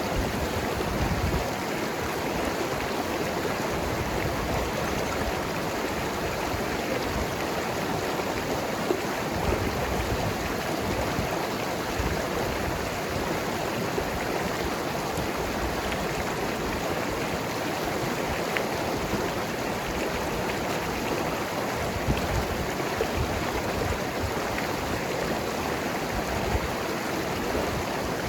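Mountain river rushing over rocks, a steady full rush of water with gurgling and small splashes here and there.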